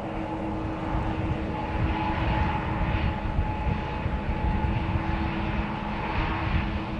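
Jet airliner engines running: a steady low rumble with a steady hum and a fainter high whine.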